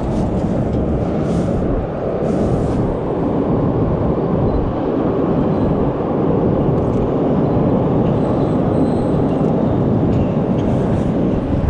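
A steady, loud low rumble, like a heavy vehicle or train running close by.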